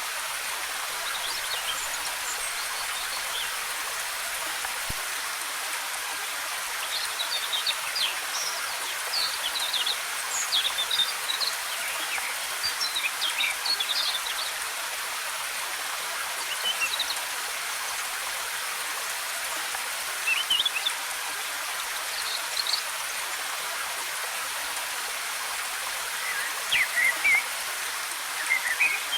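Waterfall: a steady rush of falling water. Birds chirp over it in short, high bursts, clustered in several bouts.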